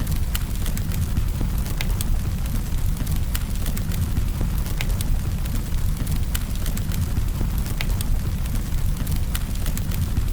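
Campfire burning: frequent irregular crackles and snaps over a steady low rumble of the flames.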